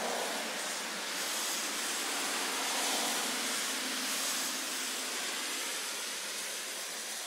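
Steady rain hiss that swells a little in the middle and eases off toward the end.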